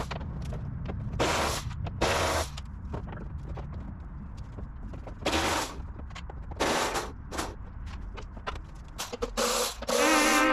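Five short bursts from a power tool, each about half a second long, over a low rumble. Music comes in near the end.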